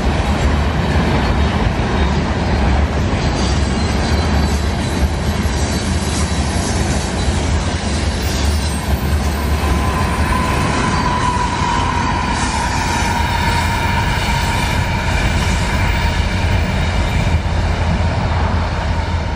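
Freight train of covered hopper cars rolling past at speed: steady wheel-on-rail running noise with a low rumble, and a thin squealing tone from the wheels in the middle stretch.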